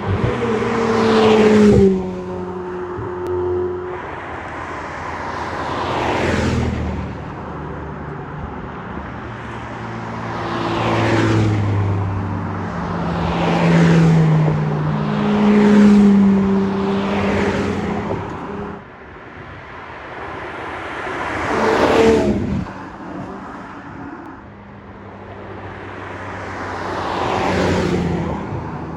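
A string of Ferrari sports cars driving past one after another, about seven in all. Each engine note swells up loudly as the car goes by and then fades away.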